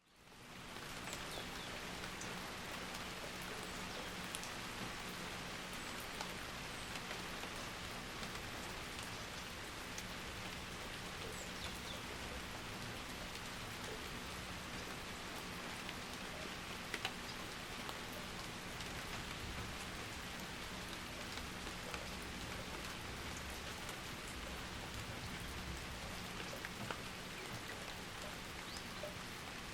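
Steady rain falling, with scattered individual drops ticking sharply. It fades in over the first second and then holds an even level.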